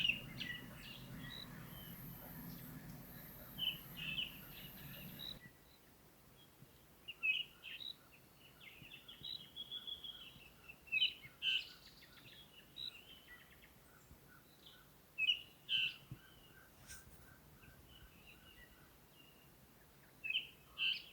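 Wild birds giving short, scattered chirps and calls in quiet bush. A faint low hum under them stops abruptly about five seconds in.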